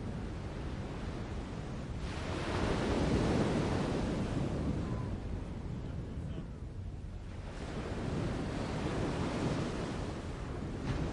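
Steady rushing outdoor noise, heaviest in the low end, swelling about two seconds in and again around eight seconds, then easing.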